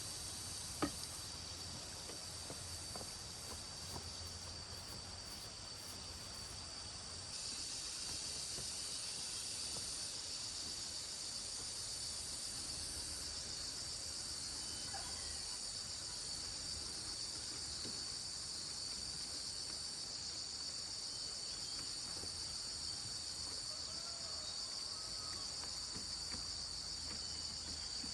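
A steady, high-pitched chorus of insects that grows louder about seven seconds in. A single sharp click sounds just under a second in.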